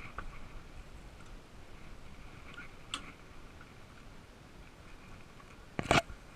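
A sharp click about three seconds in, then a louder double knock near the end, over faint background sound.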